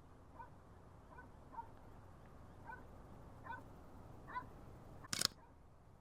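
An animal gives short calls, repeated about six times at roughly one-second intervals, over quiet outdoor background noise. A single sharp click about five seconds in is the loudest sound.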